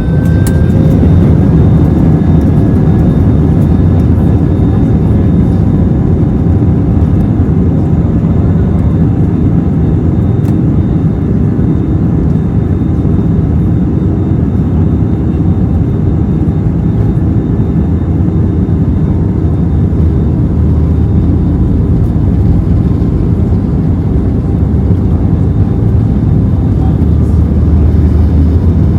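Airbus A320 jet engines heard from inside the cabin as they spool up to takeoff thrust: a whine rises slightly in pitch at the start, then a loud, steady rumble of the takeoff run and climb holds on.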